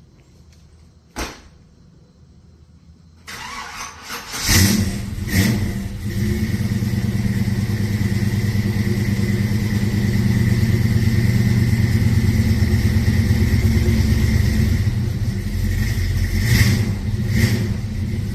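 A single sharp click about a second in, then the Chevy S10's swapped-in V8 is cranked and catches with a loud burst about four seconds in, revs once and settles into a steady idle. Two short blips of the throttle near the end.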